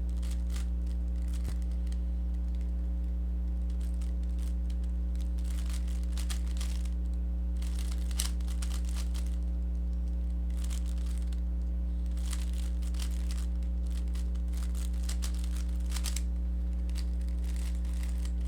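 Plastic Rubik's cube being turned by hand in quick runs of turns with short pauses between, the layers clicking and rasping as they rotate. A steady electrical hum runs underneath.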